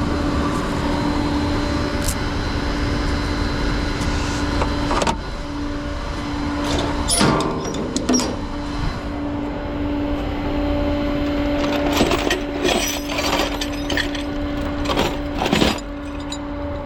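Flatbed tow truck's engine running steadily with a low hum. From about five seconds in come a series of clicks and knocks.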